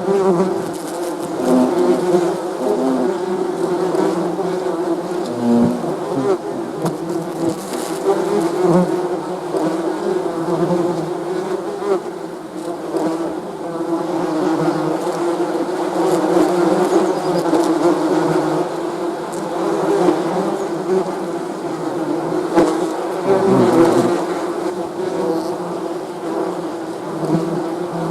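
Many bees buzzing together in a steady, dense hum whose pitch and loudness waver slightly as individual bees pass closer.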